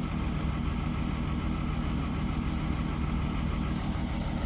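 Heavy diesel engine idling steadily with an even low pulsing.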